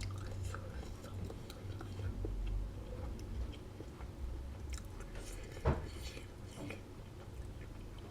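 A person chewing a mouthful of black bean taco close to the microphone, with soft, scattered mouth clicks and one sharper click a little past halfway.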